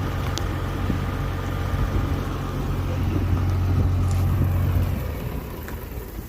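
A vehicle engine running steadily with a low hum, fading away about five seconds in.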